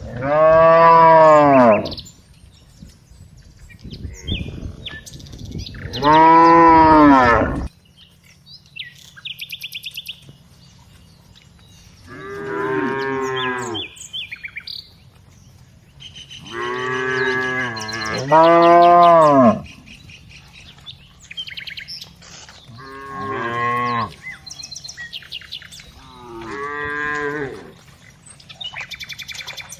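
Cows mooing again and again: about seven long moos, each rising and falling in pitch, with pauses of a few seconds between them. Two come close together in the middle, and the loudest are near the start and about six seconds in.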